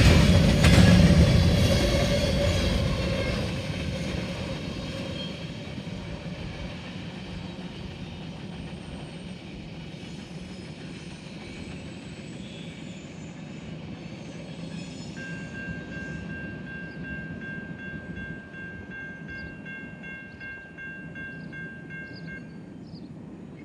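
Grain-train freight cars rolling along the rails, the wheel rumble loud at first and fading over the first few seconds as the train draws away, leaving a low steady rumble. A thin steady high tone is heard for several seconds in the second half.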